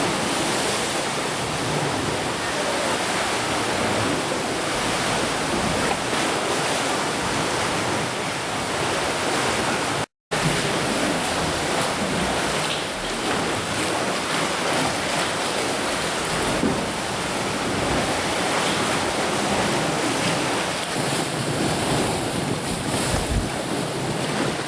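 Wind rushing over the microphone together with the wash of the sea, a steady noise broken by a brief complete dropout about ten seconds in.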